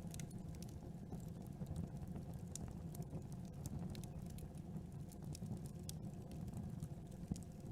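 Campfire crackling: frequent small, sharp pops and snaps of burning wood, irregularly spaced, over a steady low rumble.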